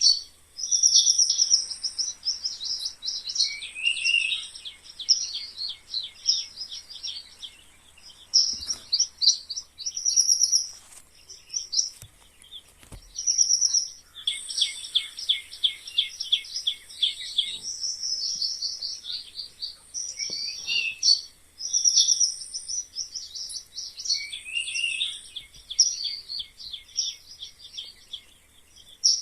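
Mice squeaking: rapid runs of short, high-pitched chirping squeaks that come in bursts with brief pauses between them, a few sliding down in pitch.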